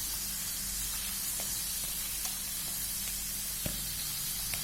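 Food frying in hot oil: a steady sizzle with a few faint crackles scattered through it.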